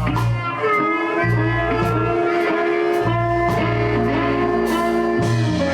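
Live blues band playing between sung lines: guitar with sustained notes over a bass line that changes notes every second or two and drums with cymbal hits.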